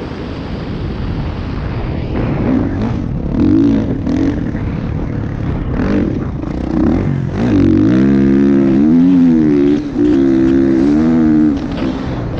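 Motocross motorcycle engines revving, the pitch rising and falling as the throttle opens and closes. One bike is louder from about seven seconds in until near the end.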